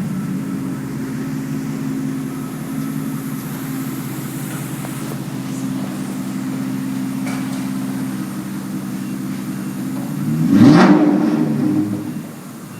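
Mercedes-Benz W140 S600's 6.0-litre V12 idling steadily through a straight-piped exhaust with only high-flow catalytic converters. About ten seconds in, a single quick rev rises and falls back to idle.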